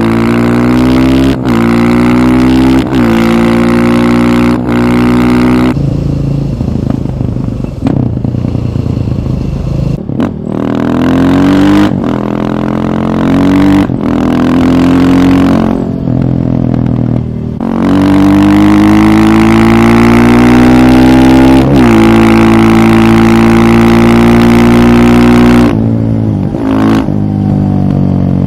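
KTM 530 EXC single-cylinder four-stroke engine pulling hard through the gears. Its revs climb and drop back at each upshift, with a few short stretches off the throttle.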